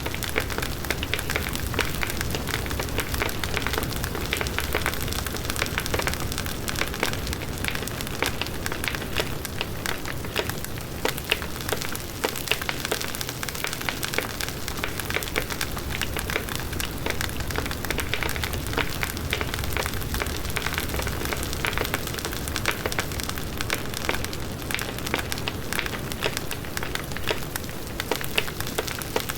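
Large wood bonfire burning steadily, with a dense run of sharp crackles and pops over the low rush of the flames.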